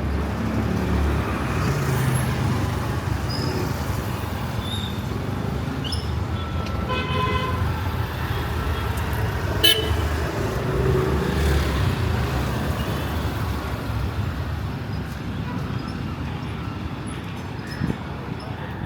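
Steady motor traffic running past, with a short horn honk about seven seconds in and a single sharp knock a couple of seconds later.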